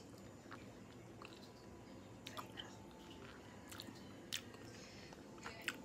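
A person chewing santol fruit: soft chewing with scattered sharp mouth clicks and smacks, a few of them louder a couple of seconds in and near the end.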